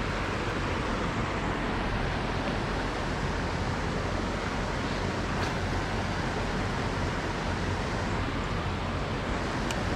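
Steady rush of creek water tumbling over rocks, with a couple of faint ticks.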